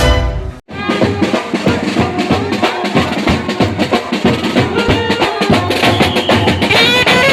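A band playing dense, rapid drumming on snare-type drums, with a melody rising over the drums near the end. It starts abruptly just after a brief break from other music.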